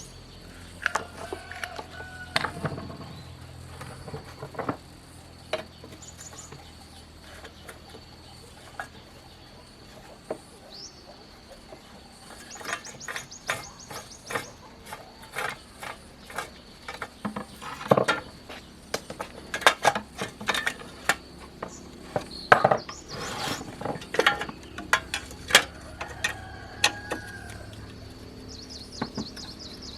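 Irregular knocks and clinks of tools and metal parts being handled, coming thickest in the middle and later part. Behind them are a steady faint high-pitched insect drone and a few short rapid insect trills.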